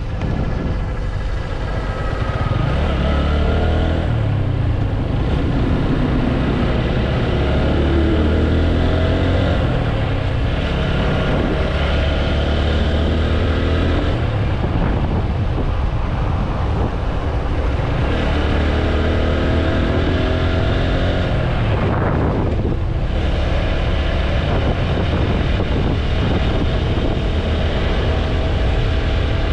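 TVS Apache RTR 160 4V's single-cylinder engine running under way, its pitch climbing and dropping back again and again as it accelerates and changes gear, over a steady low wind rumble on the microphone.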